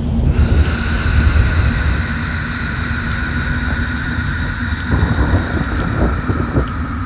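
Designed 'demonic rain' sound effect: steady heavy rain with a deep rumble beneath it, and an eerie sustained high drone of several held tones that comes in about half a second in.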